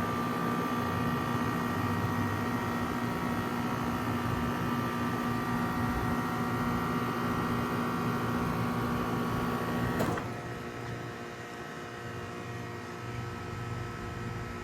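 Trane XR14 heat pump outdoor unit running with a steady hum, then shutting down about ten seconds in: the compressor's tones stop abruptly with a click and the sound drops. A fainter, lower hum carries on after the shutdown.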